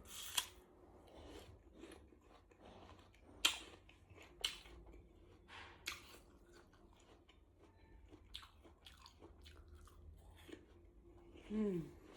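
Close-up mouth sounds of eating a bowl of spicy noodles: soft chewing with a few sharp clicks and crunches. A short falling hum comes near the end.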